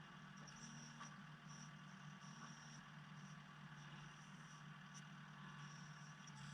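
Faint, steady engine hum, low and even, with a faint high whine coming and going above it.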